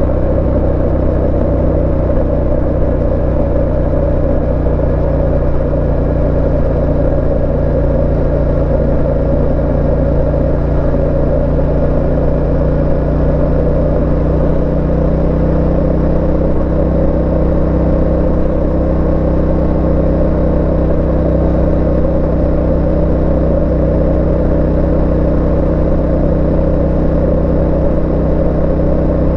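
Yamaha Ténéré 700's 689 cc parallel-twin engine running at a steady cruising pace under way, with a slight change in revs about halfway through.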